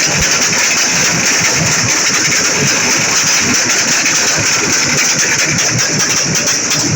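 A vehicle engine running loudly and steadily, with a constant hiss above it.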